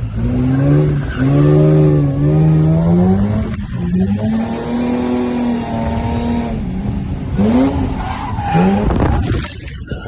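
Drift car's engine revving hard, its pitch rising and falling as the throttle is worked, over the noise of tyres skidding; two quick sharp revs near the end.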